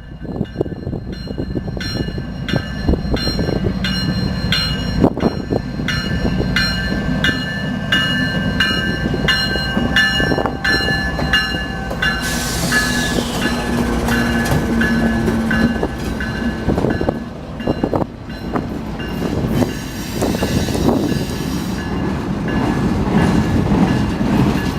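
A train passing close by, its wheels clicking over the rail joints in a steady rhythm of about two clicks a second over a continuous rumble.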